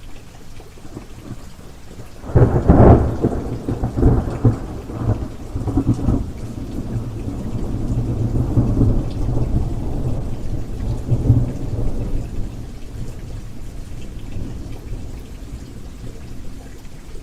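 Steady rain with a thunderclap about two seconds in: a sharp crackling crash, then a low rumble that rolls on and slowly dies away over about ten seconds.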